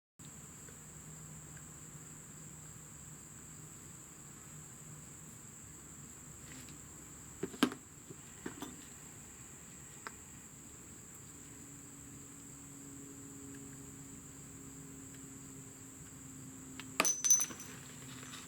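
A few light metallic clinks of brake caliper parts and tools being handled, a pair about a third of the way in and a louder cluster near the end, over a steady faint high-pitched whine.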